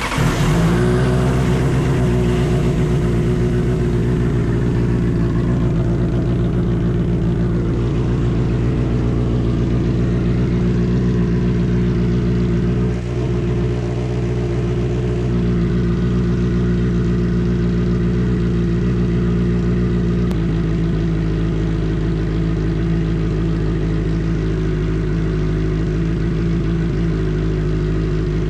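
Big-bike motorcycle engine starting from cold, flaring briefly as it catches and then idling steadily. About twenty seconds in, the idle steps down slightly.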